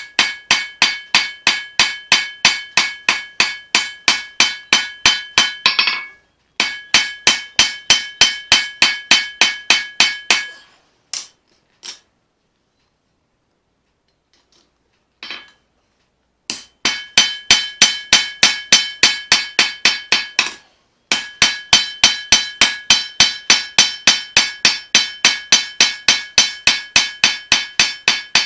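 Hand hammer forging leaf-spring steel on an anvil: steady blows, about three a second, each with a bright metallic ring. The hammering pauses for a few seconds near the middle, with only a few single strikes, then resumes at the same pace.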